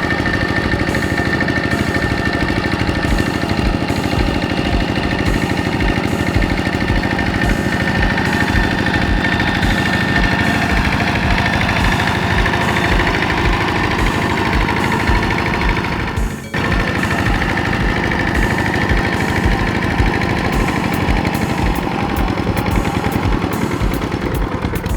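Kubota RT 120 tractor engine chugging steadily with rapid, even knocks while working. The sound breaks off briefly about two-thirds of the way through, then resumes.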